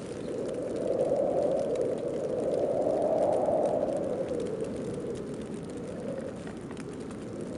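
Snowstorm wind blowing steadily, swelling into a stronger gust from about one to four seconds in, then easing back.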